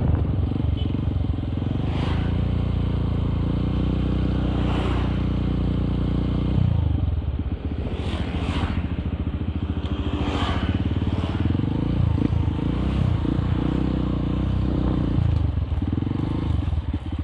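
Honda CRF150L's single-cylinder four-stroke engine running through an aftermarket exhaust while riding. The engine note holds steady, drops off about six and a half seconds in as the throttle is eased, then rises and falls with the throttle, with a few brief clattery rushes of noise.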